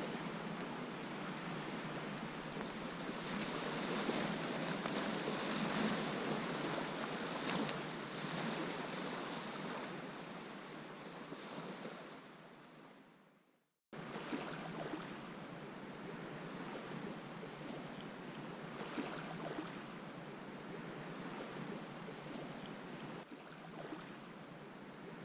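Lake water lapping and splashing under wind. The sound fades out a little past halfway, then cuts straight back in.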